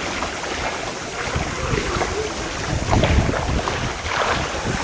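Floodwater sloshing and washing, with wind buffeting the microphone in heavier gusts between about one and three and a half seconds in.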